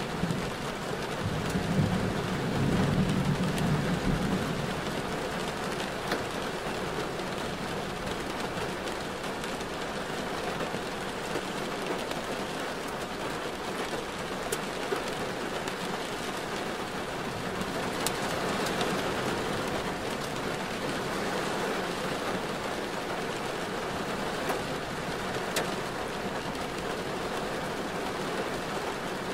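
Steady rain and wet-road noise from a car driving in a downpour, with a low rumble about two seconds in and a few sharp ticks of drops scattered through.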